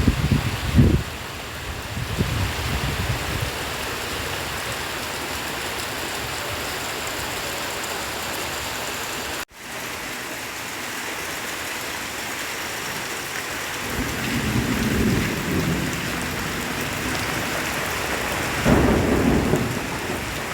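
Heavy rain falling steadily, with low rumbles that swell near the start, in the last third and near the end. The sound cuts out suddenly for a moment about halfway through.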